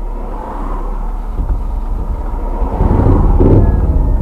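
Motorcycle engine running and growing steadily louder, a deep rumble that peaks about three seconds in.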